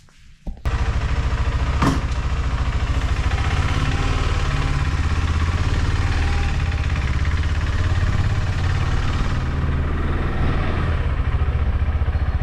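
Motorcycle engine that comes in abruptly about half a second in, then runs steadily with an even low pulsing.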